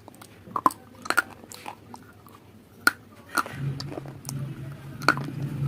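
Crunchy food being bitten and chewed close to the microphone, with sharp, crisp crunches at irregular intervals. A steady low hum comes in about three and a half seconds in.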